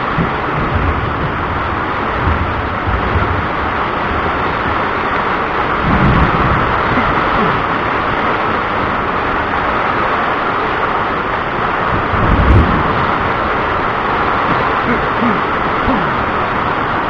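Thunderstorm: steady hiss of rain with thunder rumbling twice, about six and twelve seconds in.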